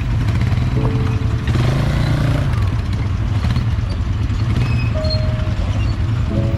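Quad bike (ATV) engine running steadily while riding, a continuous low rumble.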